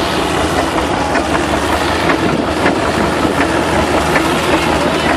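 Tractor engine at a tractor pull running loud and steady.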